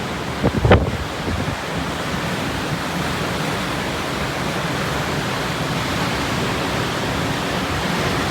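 Steady rush of typhoon wind and sea, with brief gusts buffeting the microphone just under a second in.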